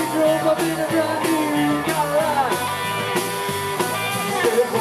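Rock and roll band playing live: electric guitar playing bent, sliding notes over a steady walking bass line.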